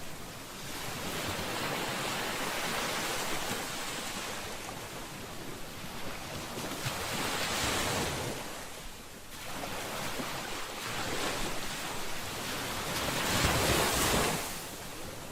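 Ocean waves breaking on a shore, the surf rising and falling in slow surges every few seconds, the loudest wave near the end.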